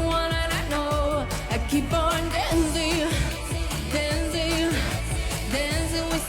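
C-pop song performed live: a solo voice singing sustained, wavering notes over a pop backing track with a steady beat.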